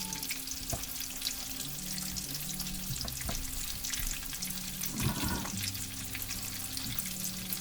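Breaded chicken breasts shallow-frying in hot oil in a skillet: a steady sizzle with constant fine crackling as the coating browns.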